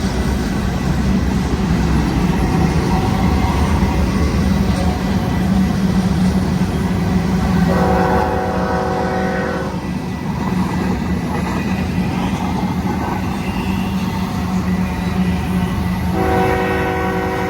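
Freight train's diesel locomotives rumbling with a steady low drone while the locomotive horn sounds a chord of several notes twice for the grade crossing: a blast of about two seconds near the middle, and another starting near the end.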